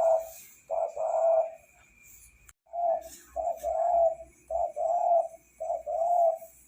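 Spotted dove cooing: a phrase of low, repeated coos, a short break, then a second phrase of four coo groups.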